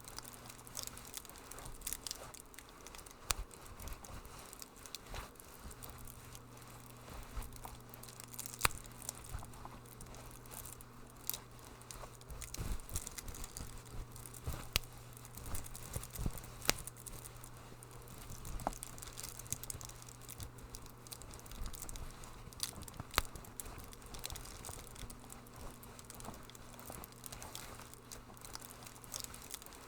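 Wood fire crackling in a fireplace: irregular sharp pops and snaps of varying strength over a soft hiss, with a faint steady low hum underneath.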